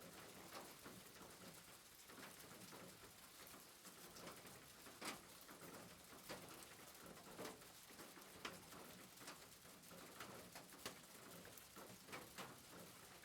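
Faint soft rain: a steady even hiss with scattered light drop-like taps at irregular moments.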